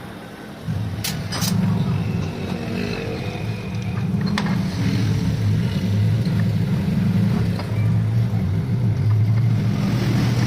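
A machine motor running with a steady low hum that starts abruptly about a second in, with a few sharp clicks early on.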